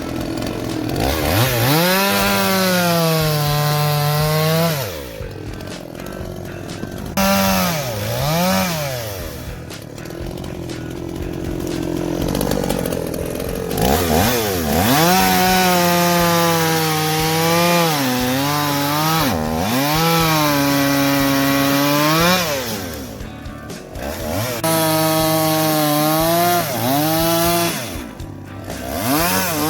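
Two-stroke chainsaw cutting firewood: the engine revs to full throttle and holds there through each cut, its pitch sagging and wavering under load, then drops back to idle between cuts. This repeats several times.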